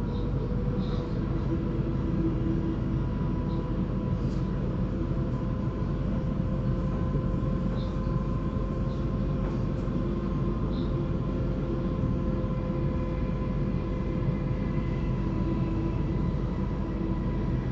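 Electric suburban train running between stations, heard from inside the carriage: a steady rumble of wheels on track with a steady motor whine over it.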